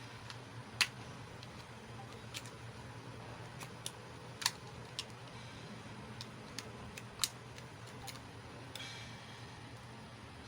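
Irregular light clicks and taps of small plastic toy pieces being handled, about a dozen, a few of them sharper, over a faint steady low hum.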